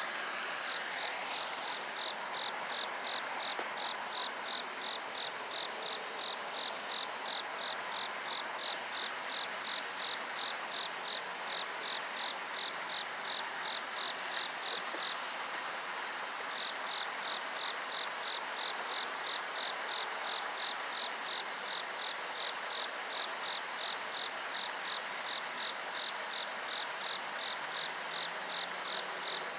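Cricket chirping in an even, steady rhythm of about three short high chirps a second, pausing briefly about halfway through, over a steady background hiss.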